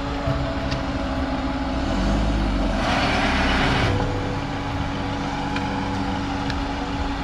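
Van engine running steadily, with a louder rushing noise for about a second around three seconds in.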